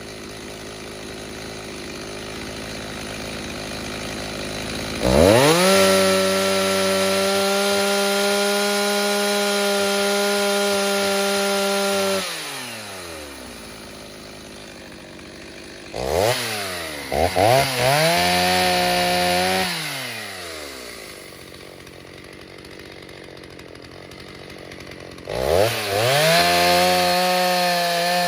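Rebuilt Stihl 029 two-stroke chainsaw with a 45 mm cylinder, on its first tank since the rebuild. It idles, then is throttled up to a steady high-revving scream three times, each held several seconds, and drops back to idle in between. On the middle run the throttle is blipped a couple of times before it settles.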